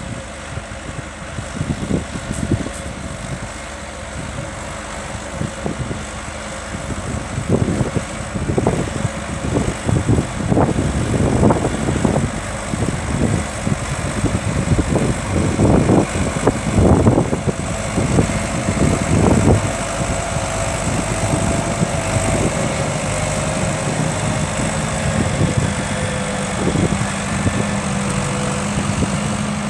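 An engine running steadily, with a stretch of loud, irregular thumps in the middle.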